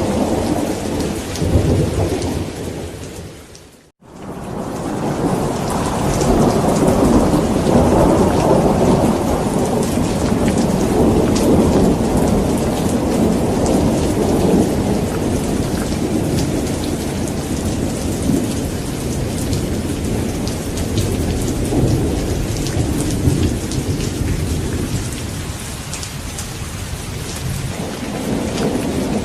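Thunderstorm: steady heavy rain with long rolling thunder rumbling underneath. About four seconds in, the whole sound fades out to a moment of silence and fades back in.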